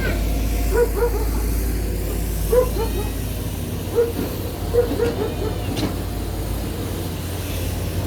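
Backhoe excavator's diesel engine running steadily with a low rumble, with short squeaks or chirps heard several times over it.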